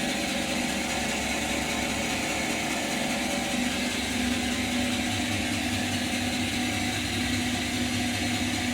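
Caorle TS 125 M brake lathe running with a steady, unbroken machine hum.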